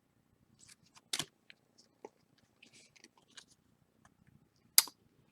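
Football trading cards being handled: faint rustling and small ticks, with two sharper clicks, one about a second in and one near the end.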